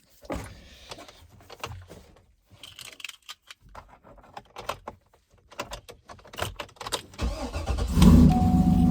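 A series of clicks and knocks, then about seven seconds in the Cadillac's engine turns over and catches, running at a steady idle with a steady high tone over it.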